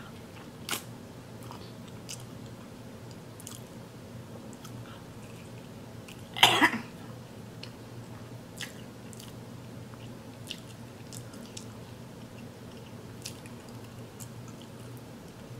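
Close-miked chewing of seafood boil, with soft wet mouth clicks here and there. One brief louder sound comes about six and a half seconds in.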